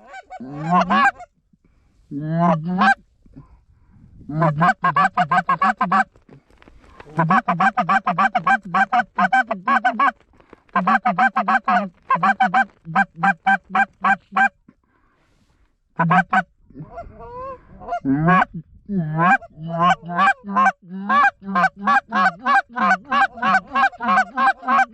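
Geese honking and clucking in fast runs of short notes, several a second, loud and close, broken by short pauses.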